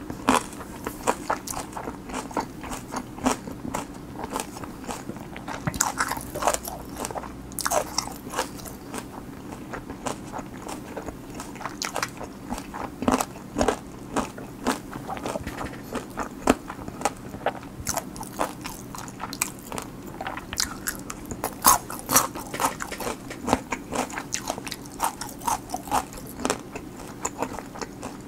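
A person chewing a mouthful of food close to the microphone: irregular wet mouth clicks and crunches, several a second.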